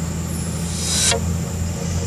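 Scania truck's diesel engine running steadily under load as it climbs a hill, with a short hiss about halfway through that swells and then cuts off suddenly.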